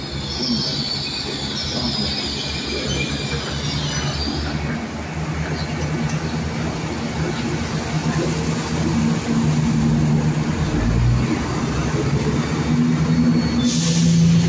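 Passenger train pulling away from the platform: a steady low engine drone and rumble of carriages rolling past, getting louder towards the end. A high wheel squeal sounds over the first few seconds, and a short hiss comes near the end.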